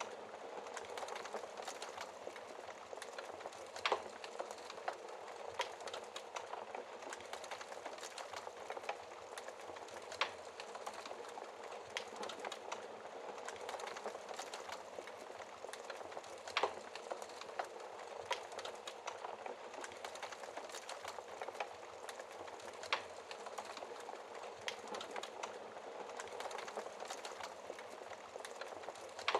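Wood fire burning in a fireplace: a steady soft hiss of flames with frequent small crackles and a few sharper pops of the burning logs.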